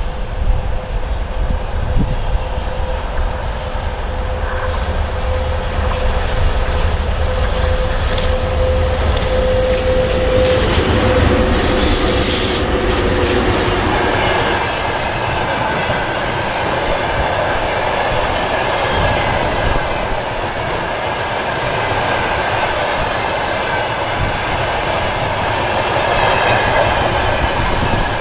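VL80S electric locomotive hauling a freight train past: a steady hum through roughly the first half, then the train's wheels rolling on the rails with a high, steady wheel squeal in the second half.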